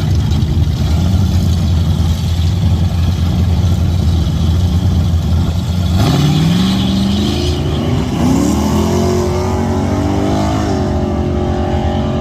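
Big-block Chevy V8 drag car, a 1982 Camaro with a 454, rumbling steadily and then launching hard about halfway through, its engine pitch climbing, dropping and climbing again as it shifts up through the gears.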